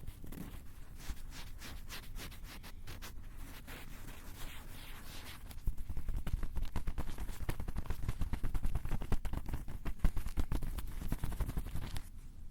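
Fast scratching and tapping directly on a Tascam recorder's built-in microphones, a dense run of clicks and scrapes. It gets much louder and more booming about halfway through and stops shortly before the end.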